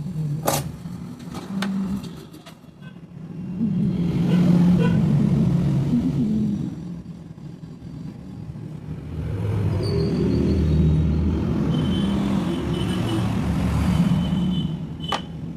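Road traffic rumbling past, swelling twice, with a sharp click near the start and another near the end.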